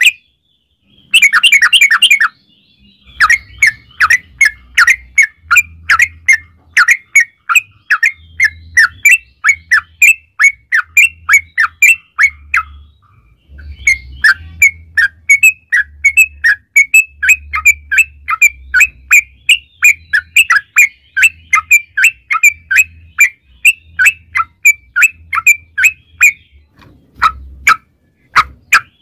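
Yellow-vented bulbul (trucukan) song: a brief burst of fast chattering about a second in, then long runs of short, bubbly notes about three a second, with a pause near the middle and a few loud notes near the end.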